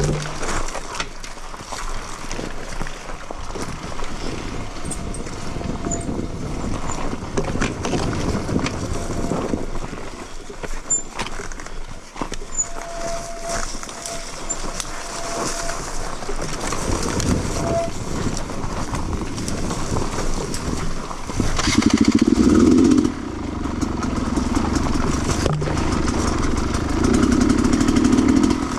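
Sherco 300 two-stroke enduro motorcycle engine running on the trail, the throttle rising and falling, with two louder revving surges in the last third.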